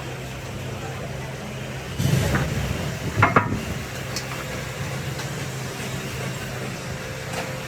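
A steady engine hum throughout, with a louder noisy surge about two seconds in and a few sharp knocks a second later.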